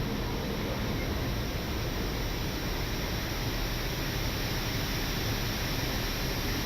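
Steady rushing noise inside an Airbus A319 cockpit on final approach: airflow over the airframe blended with the engines.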